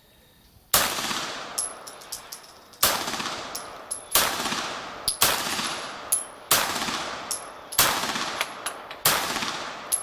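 Beretta 92G Elite Compact 9 mm pistol firing seven shots at a steady pace, about one every second and a quarter, each shot trailing off in an echo. Fainter sharp clicks fall between the shots.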